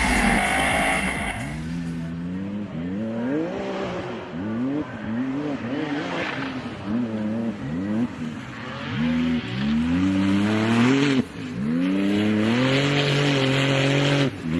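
Off-road race car's engine revving hard as it drives, its pitch climbing and dropping over and over with throttle and gear changes, cut off briefly about eleven seconds in.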